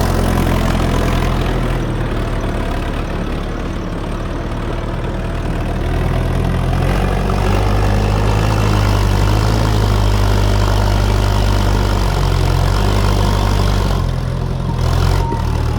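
Perkins P6 six-cylinder diesel engine of a Fordson E27N tractor running steadily, its engine note shifting a few times.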